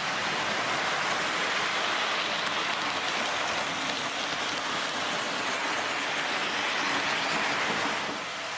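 Lionel O gauge train, the MPC-era D&H U36c diesel pulling a boxcar, running steadily on the layout track: an even rushing of metal wheels on the rails with the motor's hum, easing slightly near the end.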